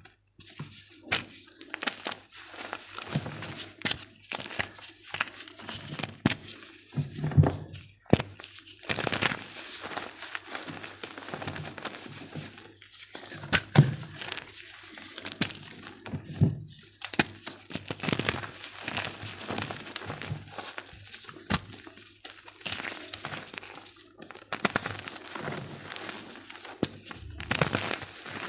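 Blocks of gym chalk being crushed and crumbled: an irregular run of dry crunches and crumbling with soft thunks and a few sharper cracks.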